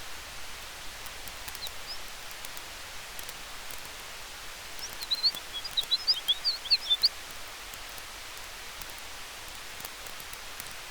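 Campfire and forest ambience: a steady hiss with scattered faint crackles, and a quick flurry of short, high chirps about halfway through.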